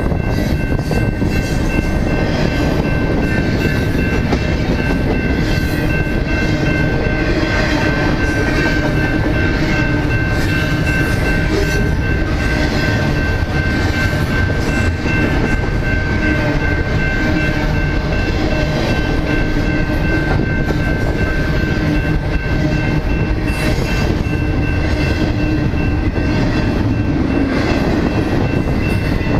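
A train rolling past close by, a continuous loud rumble and clatter of wheels on rails with steady high-pitched ringing tones over it, without let-up.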